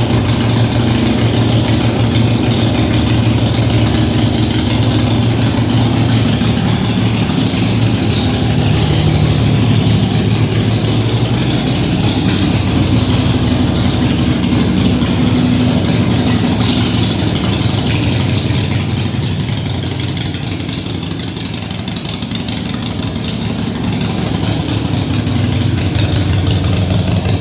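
Harley-Davidson Iron 883's air-cooled V-twin idling steadily through a Vance & Hines Shortshots exhaust. The level dips a little about two-thirds of the way through, then comes back up.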